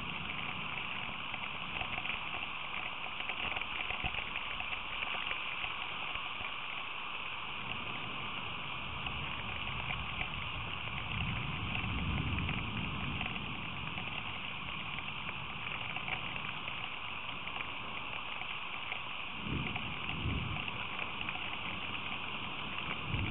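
Steady hiss of rain falling, picked up by an outdoor livecam microphone. Low rumbles swell up a couple of times, around the middle and again near the end.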